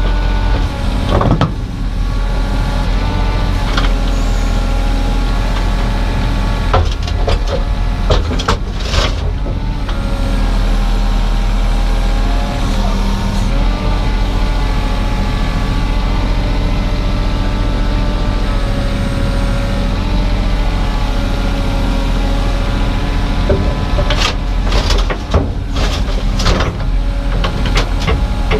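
Diesel engine of an earthmoving machine running steadily under load, with sharp metallic clanks and knocks from time to time, clustered about a second, four seconds and eight to nine seconds in and again near the end.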